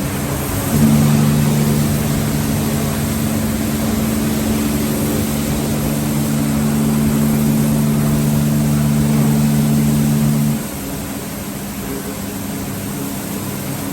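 Automatic car wash tunnel equipment running: a steady rushing noise, with a low machine hum that comes on abruptly about a second in and cuts off suddenly about ten seconds later.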